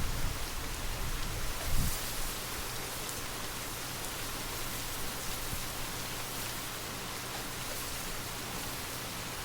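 Steady rainfall, an even hiss of many small drops. A low rumble underneath dies away about two seconds in, leaving the rain alone.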